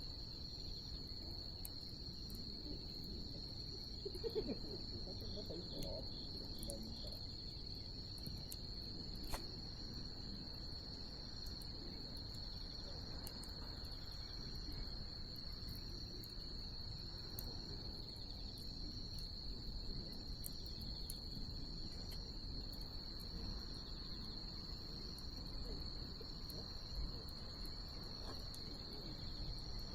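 Wood bonfire crackling with scattered small pops, a couple of sharper ones about four and nine seconds in, under a steady high-pitched trill of night insects.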